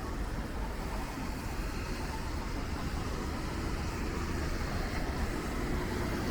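Rainy city street ambience: steady road traffic noise with a hiss of rain.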